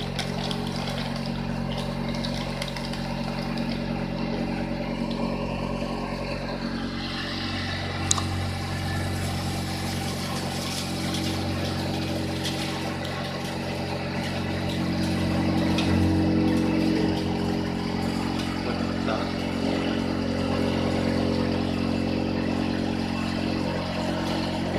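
Homemade cotton candy machine's motor running steadily, spinning the gas-heated head as sugar is fed in. The hum grows fuller about seven seconds in, with one sharp click a second later.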